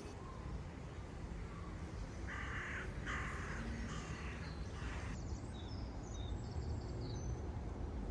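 A crow cawing a few harsh times, starting about two seconds in, followed by faint high chirps of smaller birds, over a steady low outdoor rumble.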